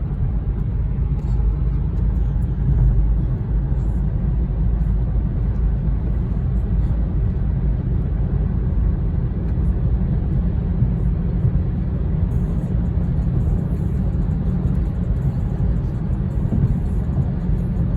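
BMW 4 Series cruising, a steady low rumble of road and engine noise heard from inside the car.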